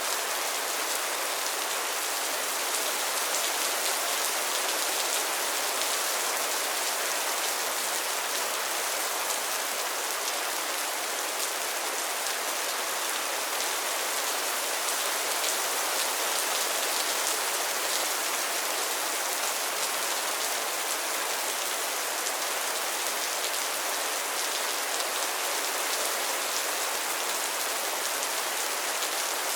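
Steady rain pattering onto pond water and floating lily pads, a dense even hiss of many small drop impacts.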